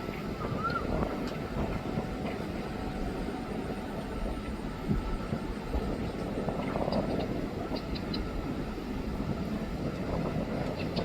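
Steady low rumble of a train on the line, with wind buffeting the microphone and a few faint clicks.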